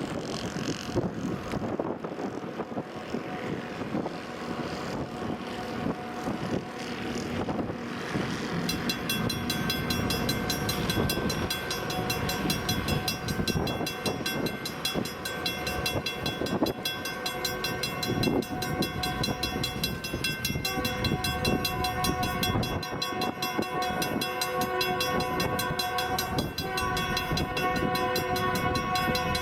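A train approaching with its air horn sounding, a steady multi-note chord held from about a third of the way in and shifting near the end, over rumbling wind noise.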